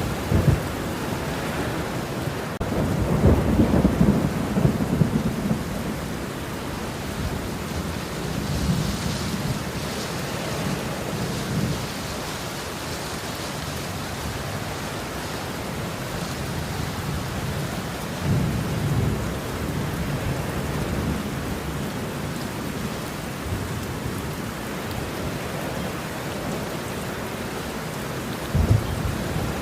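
Steady rain falling, with rolling thunder rumbling several times, the strongest rumble a few seconds in and others around the middle and near the end.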